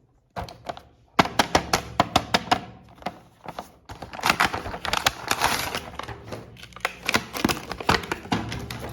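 Hard plastic clicking, tapping and rustling as action figures and their packaging are handled, with a quick run of clicks about a second in and a longer rustle in the middle.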